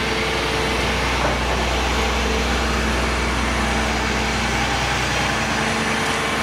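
Concrete pump truck's engine running steadily at idle, a low, even hum.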